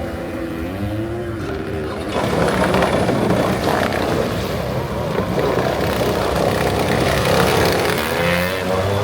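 Motorized surfboard (motosurf) engines running and revving on the water, getting louder about two seconds in.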